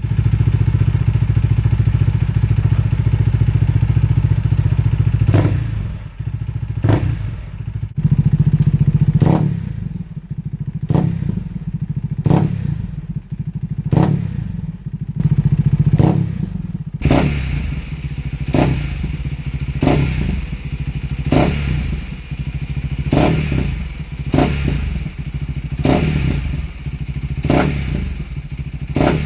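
KTM 390 Duke single-cylinder engine through an Arrow exhaust with no dB killer and no catalytic converter: it idles steadily for about five seconds, then is revved in a string of short, sharp throttle blips, roughly one every second or so, to the end.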